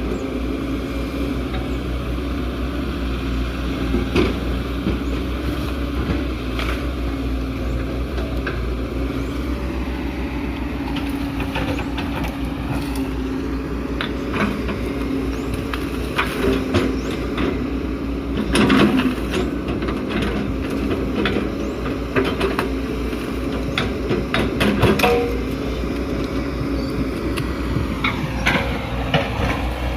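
Excavator's diesel engine running under load, its engine speed sagging briefly about ten seconds in and again near the end, with scattered metal clanks and knocks from the machine working, most frequent in the middle stretch.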